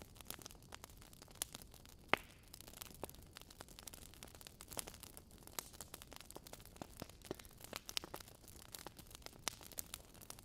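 Wood fire crackling in a fireplace: irregular sharp pops and snaps from burning logs over a faint steady hiss, with a louder pop about two seconds in.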